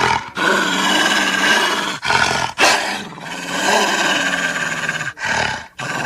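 Creature sound effect of the extinct Hokkaido (Ezo) wolf: harsh, rasping snarl-like calls in several long phrases, each broken off by a brief pause.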